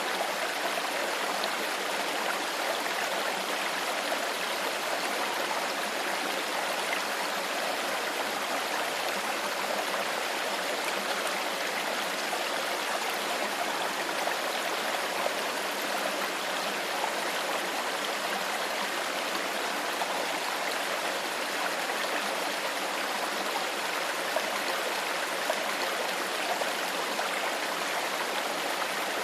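Shallow stream flowing steadily over stones, a constant rushing and babbling.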